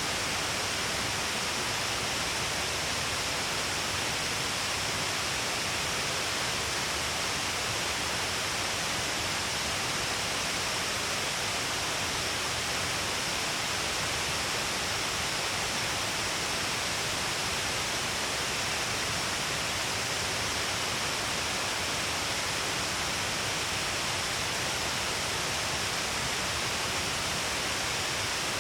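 Shiraito Falls, a broad curtain of many falling streams down a cliff, pouring steadily: a continuous, even rush of falling water and spray.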